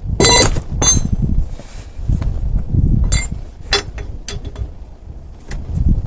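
Metal tools clinking and knocking while a car wheel is worked on during a tyre change: a sharp ringing clank about a quarter second in, another just before a second in, then several lighter knocks, over a low rumble.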